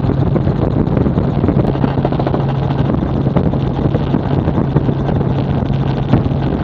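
Tour helicopter in flight, heard from inside: a steady engine and rotor drone with a constant low hum, and wind buffeting the microphone.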